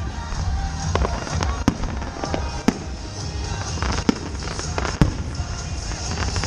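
Aerial fireworks going off: a continuous low rumble of bursts with several sharp bangs spread through it.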